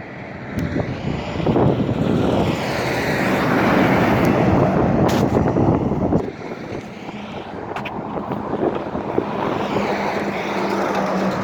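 Road traffic passing close by: a vehicle's tyre and engine noise builds over the first few seconds and falls away sharply about six seconds in, followed by a steadier engine hum as another vehicle approaches.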